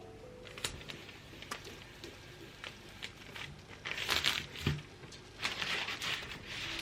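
Paper or plastic crinkling in short rustles, with a few light, sharp clicks.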